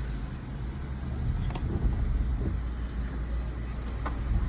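Car idling, a steady low rumble heard from inside the cabin, with two faint clicks.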